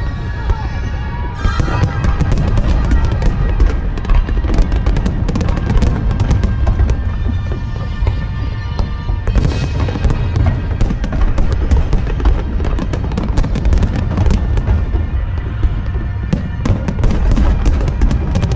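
A fireworks display, with repeated deep booms and dense crackling throughout, over background music.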